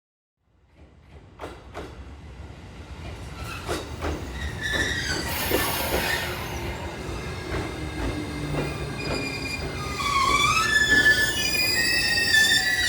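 Train approaching along the platform, getting louder, with knocks and clicks of the wheels on the rails; from about ten seconds in, high-pitched wheel squeal with several wavering tones joins in.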